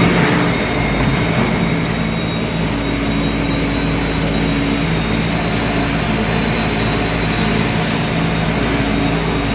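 Heavy machinery engine running steadily at a constant pitch, with no impacts or breaking noises.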